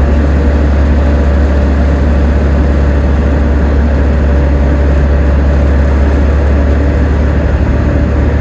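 Volvo B7TL bus's six-cylinder diesel engine running steadily, heard from on board as a loud, even low hum with no change in revs.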